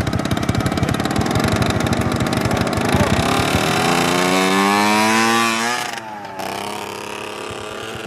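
Small quad bike engine running, then revving with a steadily rising pitch from about three seconds in. The revs drop suddenly near six seconds and it settles to a lower, steady run.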